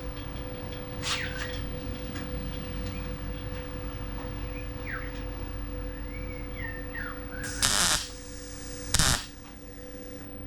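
Two short bursts of MIG welding, tack welds on a sheet-steel car body patch, a little over a second apart, the first about half a second long and the second shorter. Birds chirp faintly over a steady hum.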